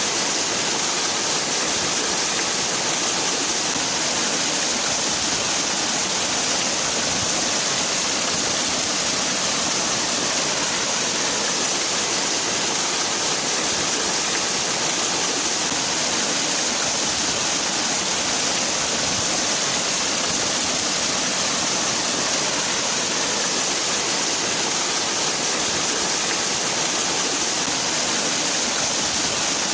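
Waterfall: falling water making a steady, unbroken rush with a bright hiss on top, with no change in level.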